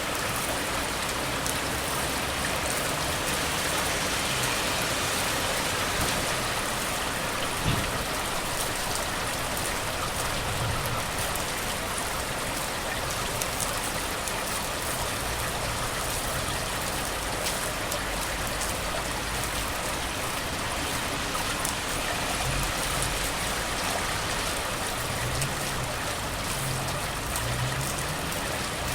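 Steady, heavy rain hiss, with a low rumble of road traffic swelling now and then, most in the last few seconds.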